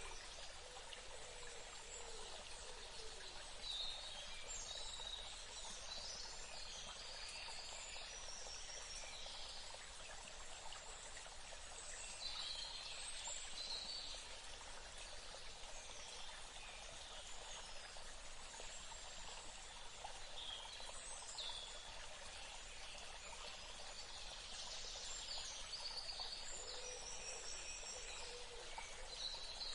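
Birds singing in several short bursts of high chirps and trills over a steady background hiss.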